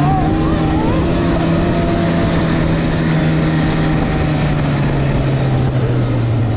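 Snowmobile engine running steadily, its pitch easing down slightly about four seconds in.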